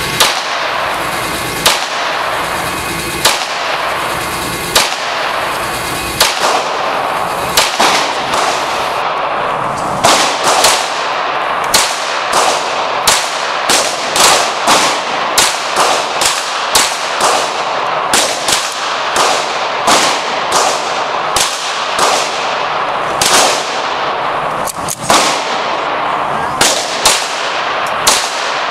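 Semi-automatic pistol fired repeatedly in an indoor range, each shot ringing off the room over a steady hiss. Single shots come about every second and a half at first, then faster strings about two a second from around ten seconds in.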